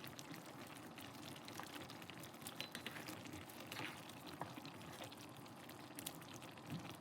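A pot of coconut-milk curry simmering, a faint steady bubbling with small scattered pops and clicks.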